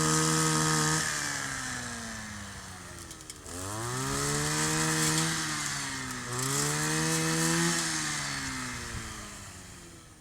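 Kioritz 260 two-stroke brush cutter engine being revved: it is held at high revs for about a second, then the revs fall, and it is blipped up twice. Near the end the revs and loudness fall away.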